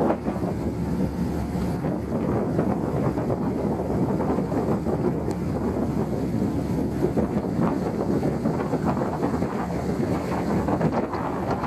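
Wind buffeting the microphone: a steady, rough low rumble with no distinct tones.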